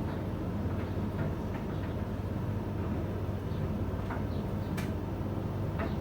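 Steady low background hum, with faint, short high chirps scattered through it.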